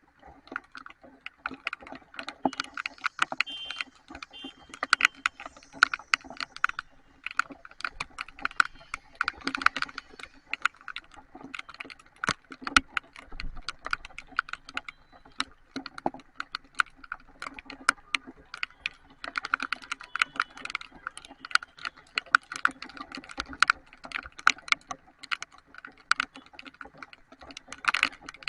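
Heavy rain: a dense, irregular patter of raindrops striking a hard surface right by the microphone, heard as many sharp clicks.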